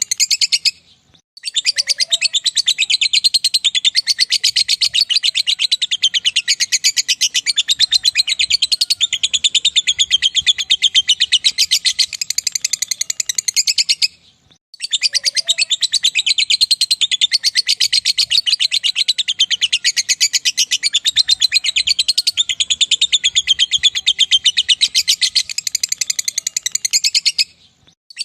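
Lovebird 'ngekek' song: a long, very rapid, high chattering trill of many notes a second, held for about thirteen seconds at a stretch. It breaks off briefly about a second in and again about halfway through, then resumes.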